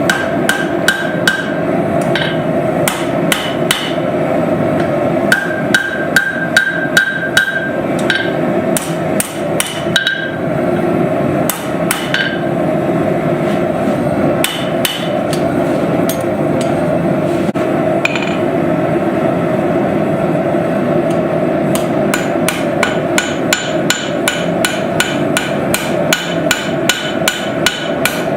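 A forging hammer striking steel on an anvil in runs of blows, the anvil ringing after many strikes, over a steady low rushing noise. The blows thin out midway, then come fast and regular, a few a second, from about two-thirds of the way through.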